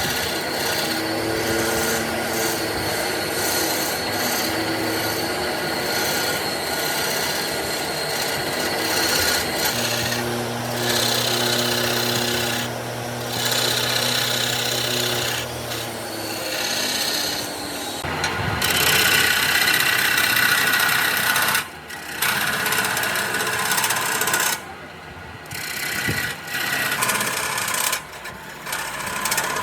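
Steady abrasive rubbing on wood, with a motor humming underneath in stretches. The rubbing breaks off briefly a few times near the end.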